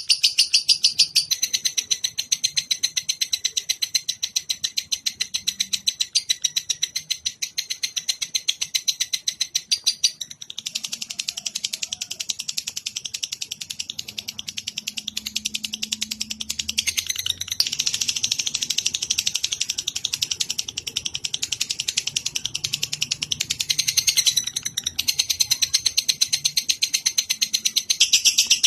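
Bird song: a long, fast, chattering trill of rapidly repeated high notes, shifting its pattern every few seconds. It is a song-tutor recording (masteran) for caged songbirds.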